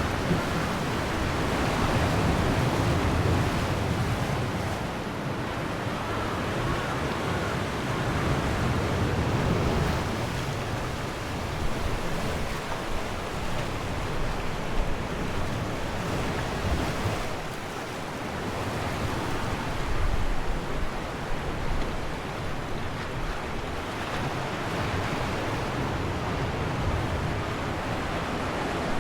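Ocean waves washing in against the shore, a steady surf that swells and eases every few seconds, with some wind buffeting the microphone.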